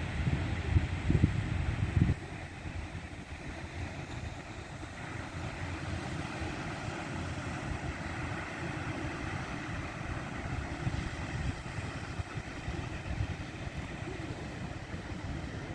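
Wind buffeting the microphone, heavily for the first two seconds and then easing, over a steady wash of sea surf.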